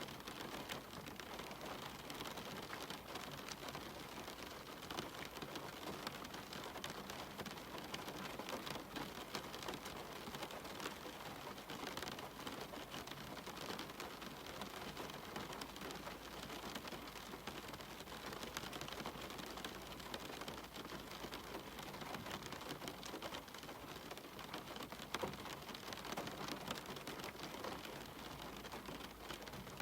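Steady rain falling, with many small drop ticks pattering on hard surfaces through an even hiss.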